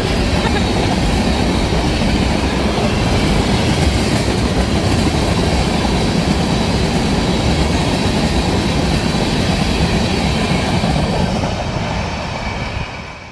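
Freight train cars rolling past at speed: a steady rush of steel wheels on rail that fades away near the end as the last cars clear.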